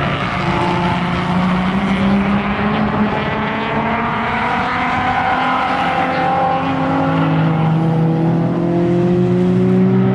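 Race car engines running hard on a road course, their engine note climbing steadily over several seconds as the cars accelerate.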